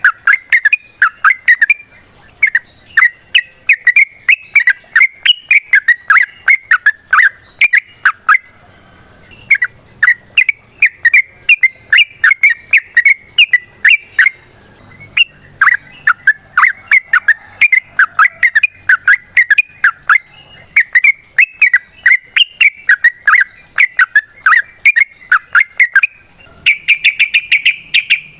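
Yellow-vented bulbul (trucukan) singing its long, rapid chattering song ('ropel'): quick runs of short notes in several long phrases broken by brief pauses, turning to a denser buzzy chatter near the end.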